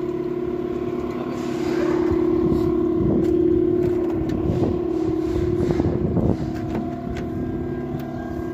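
A steady, even-pitched engine hum, with irregular knocks and rustling from about two to six seconds in.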